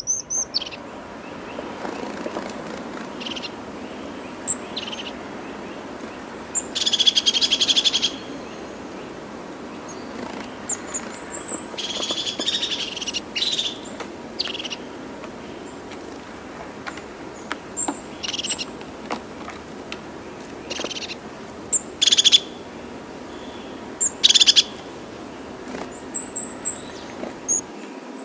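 Wild birds calling: a series of short high chirps and buzzy chattering calls, several lasting about a second, over a steady outdoor background.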